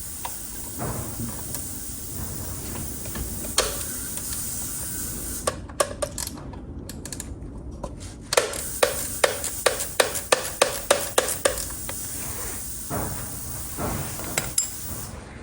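Hand tools at work on a motorcycle brake hose fitting: scattered metallic clicks and knocks, with a quick even run of about a dozen ratchet-like clicks a little past the middle, over a steady hiss.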